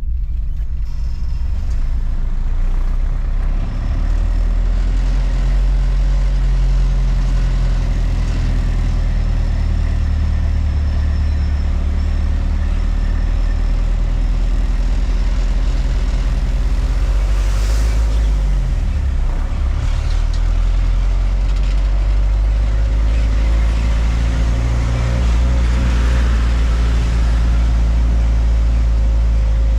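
Truck engine running steadily while driving, a loud low hum with road noise. About two-thirds of the way through, the engine note dips and then comes back up.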